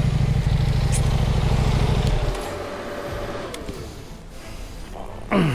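Husqvarna Norden 901 adventure motorcycle's parallel-twin engine running loud on slick clay, then cutting out about two seconds in, which fits the bike sliding and stalling after the rider loses traction. A short falling sound comes near the end.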